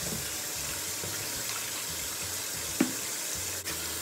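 Water running steadily from a bathroom sink tap, with a single sharp knock nearly three seconds in.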